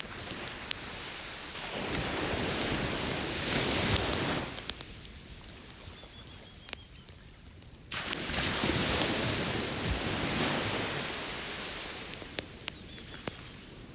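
Ocean waves breaking on a beach, two surges that swell and wash back, one near the start and one about eight seconds in, with a campfire crackling in sharp pops throughout.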